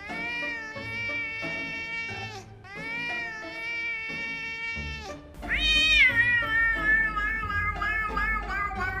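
Three long, drawn-out cat meows, the last rising sharply and then falling away in a long held call, over background music.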